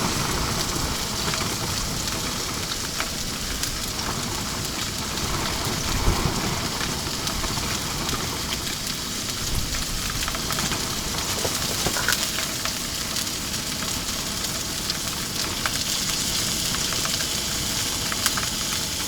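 Salmon frying in oil in a pan on a portable propane stove: a steady sizzle with many small spattering crackles.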